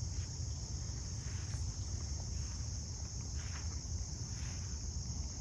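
Steady high-pitched chorus of insects, continuous and unchanging, over a low rumble.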